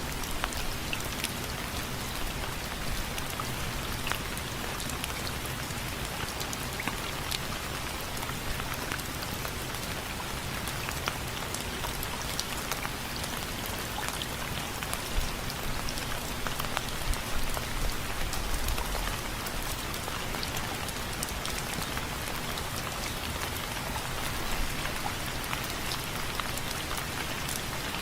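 Steady rain falling on window frames: a constant hiss with many individual drops ticking irregularly.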